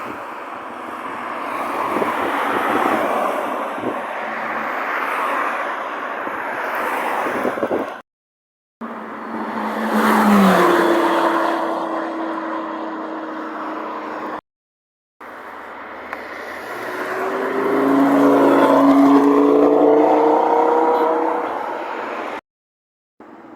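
Supercar engines in three short clips: first a rough rumble of car noise, then a car engine that drops in pitch and holds a steady note as it passes, then an engine rising in pitch as it accelerates.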